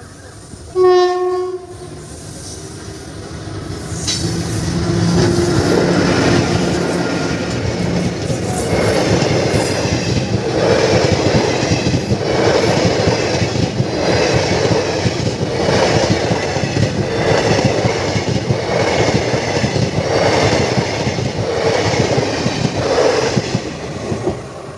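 Passenger train passing a level crossing. The locomotive sounds one short horn blast about a second in, then the train noise builds as it nears. The coaches roll past with a rhythmic wheel clatter that repeats about every second and a half, dropping away near the end.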